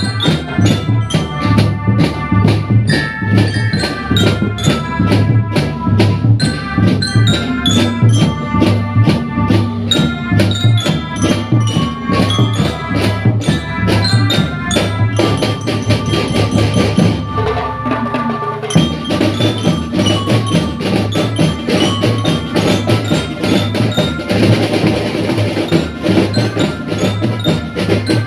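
School marching drum band playing: drums keep a steady, driving beat under a melody of bright, glockenspiel-like bell notes.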